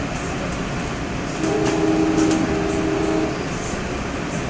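NJ Transit commuter train running with a steady rumble, heard from inside the passenger car. About a second and a half in, the locomotive's horn sounds a chord in two blasts, the first a little longer.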